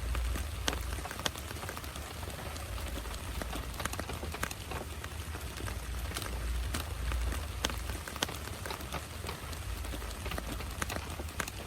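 Heavy rain falling, with many single drops hitting close by as sharp taps over a steady hiss and a low rumble.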